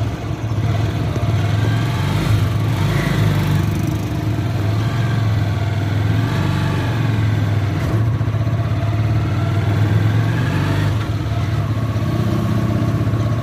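Motorcycle engine running steadily at cruising speed, heard from inside a moving tricycle's sidecar, with road noise.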